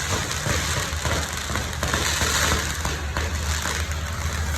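A string of firecrackers going off in a dense, continuous crackle of rapid small bangs, over a steady low rumble.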